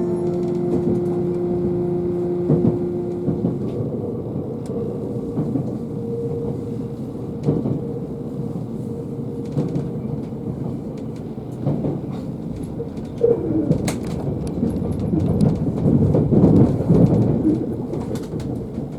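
Steady rumble of railway noise, joined in the second half by low, wavering calls that rise and fall repeatedly.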